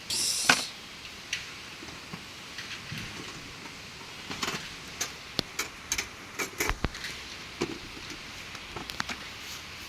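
Rain with scattered heavy drops tapping irregularly on a nearby surface, a dozen or so sharp taps over a steady hiss. A brief rustling hiss at the start.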